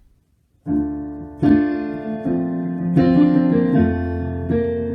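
Piano, possibly electric, playing the opening chords of a hymn introduction, with sustained notes and fresh chords struck about once a second, starting just under a second in.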